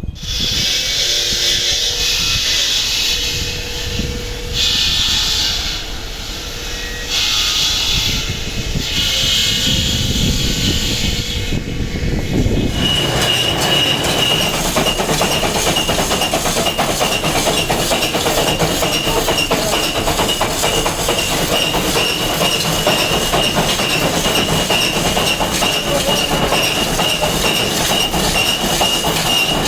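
Power grinder working on stone. It comes in passes of about a second and a half for the first dozen seconds, then grinds continuously with a steady high whine.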